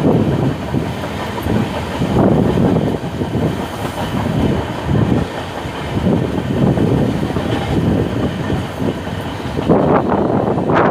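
Passenger train running on the rails, heard from on board: a steady, loud rumble and rattle of wheels and coach with uneven pulses.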